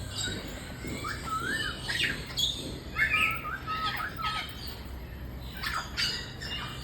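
Birds calling: a string of short chirps, whistled notes and squawks. Several quick sweeping calls fall in pitch, with a cluster of whistled notes in the middle.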